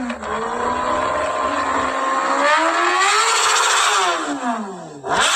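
Kawasaki Ninja ZX-10R inline-four running through a full Arrow exhaust system. The revs climb gradually, rise harder about two and a half seconds in, fall away over a couple of seconds, then jump sharply again near the end.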